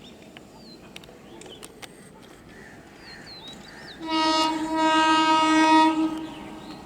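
Indian Railways EMU local train's horn sounding one blast of about two seconds, starting about four seconds in, with a short dip in level just after it starts. Small birds chirp faintly before it.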